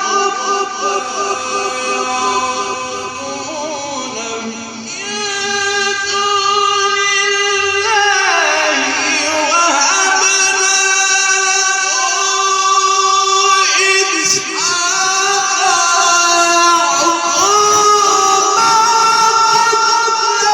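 Male Quran reciter chanting in the melodic mujawwad style, holding long ornamented notes that slide up and down in pitch, amplified through a sound system.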